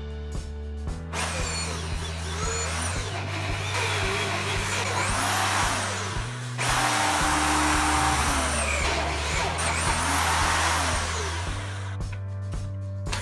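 Power tool running and working material, its whine rising and falling in pitch, over background music.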